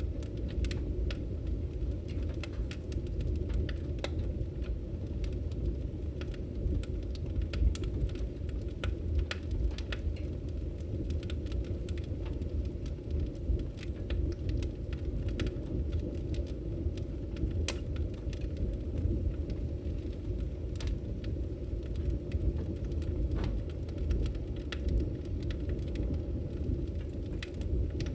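Wood fire crackling in a fireplace: a steady low rumble of burning flames with frequent, irregular sharp pops and crackles.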